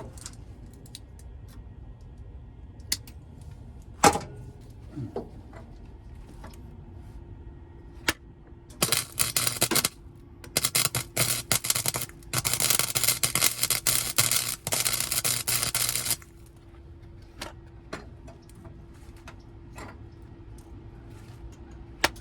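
Wire-feed welder arc crackling on sheet-steel car floor pans in three short bursts, the last and longest nearly four seconds. A few sharp clicks and knocks come before the welding, and a steady low hum sounds during and after it.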